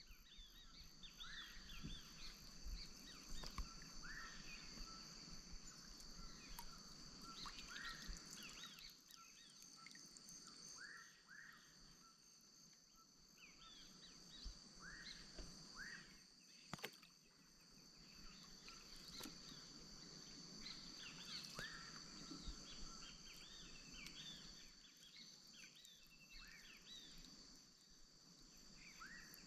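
Amazonian wetland insect chorus: a steady high-pitched drone, over which short chirping animal calls repeat every second or two, with a few faint clicks.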